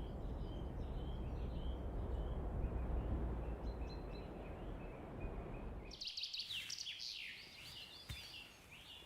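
Woodland songbirds singing and chirping. For about the first six seconds the song is faint over a steady low rumble, then the rumble cuts off and a burst of louder, busier birdsong follows, thinning to scattered chirps near the end.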